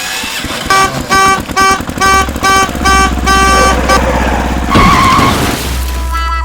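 A low vehicle engine rumble with a horn honking in quick repeated beeps, about two or three a second. About five seconds in comes a brief tyre-like screech.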